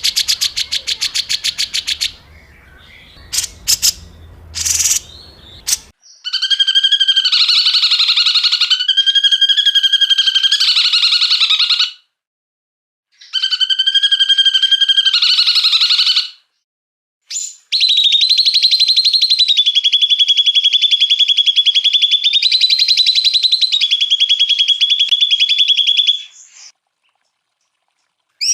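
A small songbird sings very rapid, buzzy rattling trills of the kind bird keepers call 'tembakan kasar' (rough shots). A short trill opens, then three long trills follow, each several seconds long with brief pauses between them.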